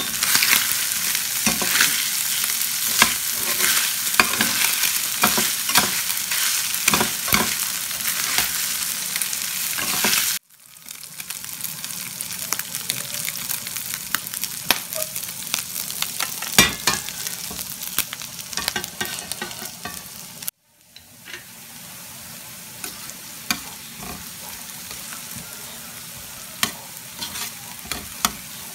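Chopped chicken gizzard and liver sizzling as they fry in a stainless steel pan, with frequent clicks and scrapes of a metal spatula stirring them. The sizzle cuts out abruptly twice and comes back quieter each time, and near the end it is diced onion, bell pepper and garlic sizzling in butter.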